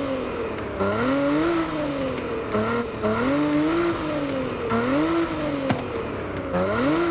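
Nissan Z Nismo's twin-turbo V6 engine revving, its pitch climbing and falling back five or six times. A single sharp crack comes about five and a half seconds in.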